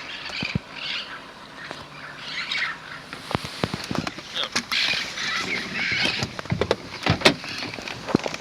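A flock of wild Amazon parrots squawking, harsh screechy calls overlapping one another, with scattered sharp clicks.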